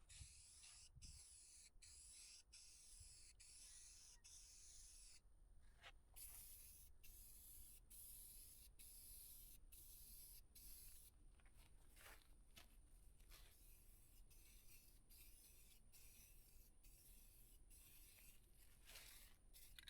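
Faint hiss of an aerosol spray paint can being sprayed in passes, with many brief breaks and a longer pause about five seconds in.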